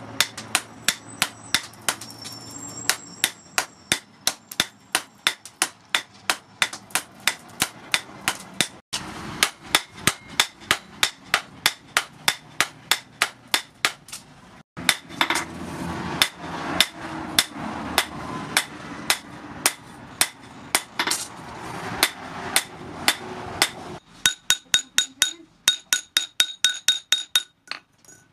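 Hand hammers striking red-hot steel from a tractor disc plough on an anvil, a steady run of about three blows a second. In the last few seconds the blows ring with clear metallic tones.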